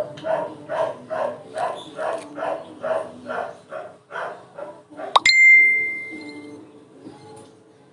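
A dog barking over and over, about two or three barks a second, stopping about four and a half seconds in; then a sharp metallic ding that rings out for about a second.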